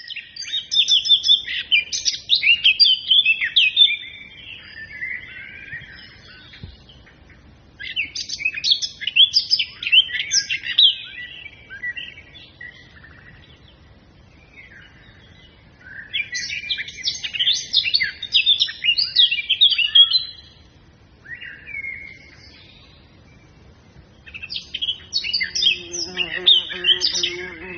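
A songbird singing in four bouts of rapid, varied warbling chirps, each a few seconds long, with quieter pauses between. Music with sustained low notes comes in near the end.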